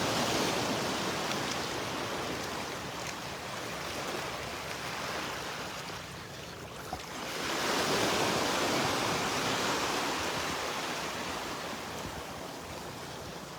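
Small Gulf of Mexico waves washing up on the beach as the tide comes in: one wash of surf at the start that slowly fades, and a second that builds about seven seconds in and dies away.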